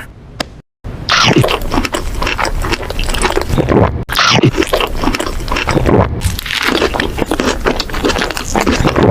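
Close-miked eating of crunchy food: loud, irregular bites and chewing crunches. After a brief silence at the start, it carries on with a short break about four seconds in.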